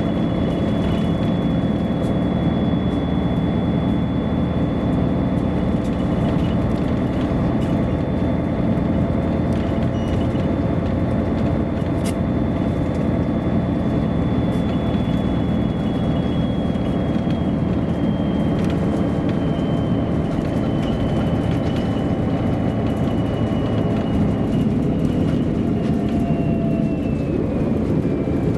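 MAN A23 articulated diesel city bus driving, heard from on board as a steady rumble. A thin high whine holds steady, then slowly falls in pitch through the second half.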